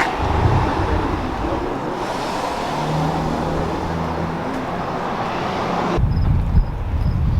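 Vehicle on the move: a steady rush of road and engine noise with a low hum, which cuts off abruptly about six seconds in and gives way to a lower, rumbling sound.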